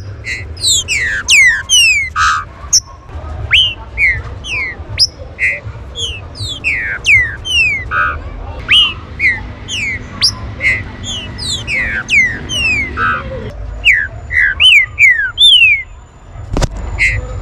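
Green-winged saltators (trinca-ferro) calling in a rapid, overlapping chatter of short, sharp, downward-slurred whistles, with a few buzzier notes mixed in, over a low steady rumble.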